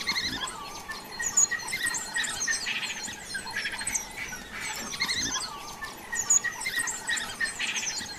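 Birds chirping and calling, many short high calls overlapping, several of them falling quickly in pitch.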